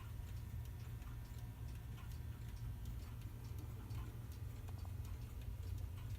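Mechanical clock ticking faintly and evenly over a low hum.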